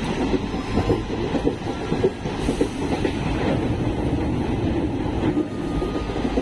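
Passenger train running at speed, heard from inside the carriage at the window: a steady rumble with irregular wheel clatter on the rails.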